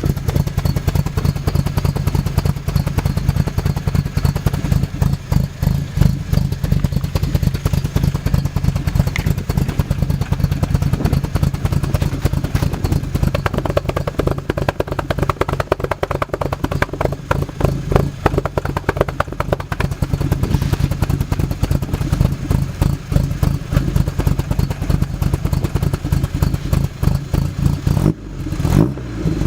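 Datsun 510 wagon's engine idling through its exhaust, a steady, rapid pulsing note. Near the end the note dips briefly, then changes as the engine is revved.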